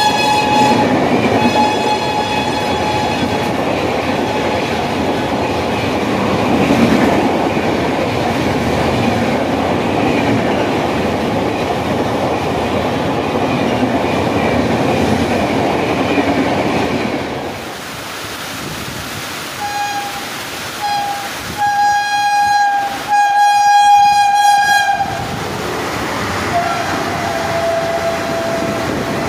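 Express train coaches rolling past at speed with clickety-clack, the locomotive's horn fading away at the start. About eighteen seconds in, a Vande Bharat trainset sounds its horn in several blasts, the last one long, and the horn tone carries on lower as the train runs past.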